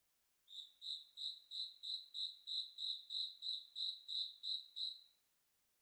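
A cricket chirping in an even, high-pitched rhythm of about three chirps a second. It starts about half a second in and stops a little before the end.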